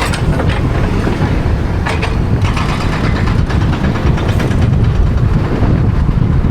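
Vehicle travelling on the road: a steady low rumble of engine and road noise with wind buffeting the microphone, and a brief louder rattling rush about two seconds in.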